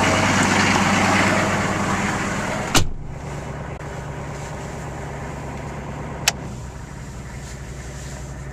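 Chevy 6.5L turbo diesel V8 running after a hard cold start. About three seconds in a sharp knock sounds and the engine is quieter from then on, with one more short click a few seconds later.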